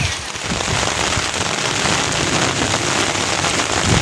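Rain falling steadily, a dense and even patter.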